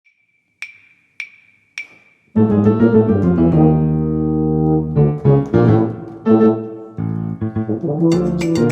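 Three evenly spaced sharp clicks over a faint steady high tone, like a count-in, then a piano comes in with sustained chords, moving to quicker repeated notes near the end.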